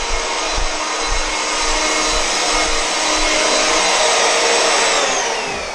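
Vacuum motor running with a high whine, then switched off about five seconds in, its whine falling as it spins down.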